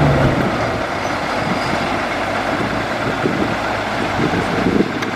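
Large bulldozer's engine running steadily, with dense mechanical machinery noise throughout.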